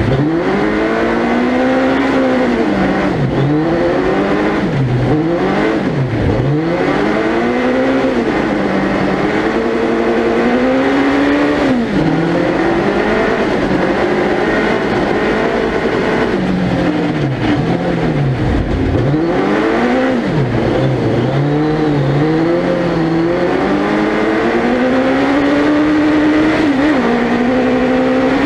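Suzuki Hayabusa 1300cc inline-four motorcycle engine in a four-wheel-drive prototype car, heard onboard, revving up and dropping away over and over as the throttle is lifted and reapplied and gears change, with a long steady climb in revs near the end.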